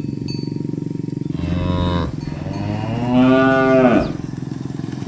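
Cow mooing twice: a short moo about a second and a half in, then a longer, louder one whose pitch drops as it ends. A steady low drone runs underneath.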